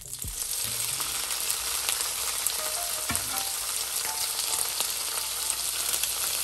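Frozen chanterelle and porcini mushrooms hitting hot oil in a frying pan, starting suddenly and then sizzling steadily.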